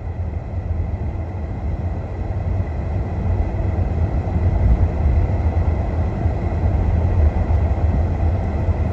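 Car in motion heard from inside the cabin: a steady low rumble of road and engine noise that gets a little louder about three seconds in.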